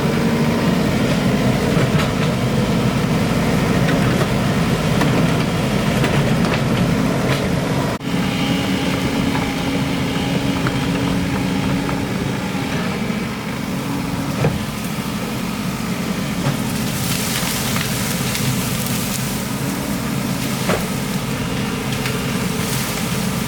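Excavator's diesel engine running steadily while digging, with scattered knocks and clanks, and a spell of hiss partway through.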